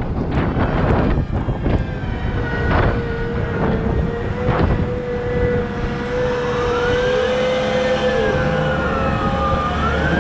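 Caterpillar 972M XE wheel loader working: a diesel rumble under a steady whine, with a second whine rising and falling in pitch from about six seconds in. Several knocks come in the first half.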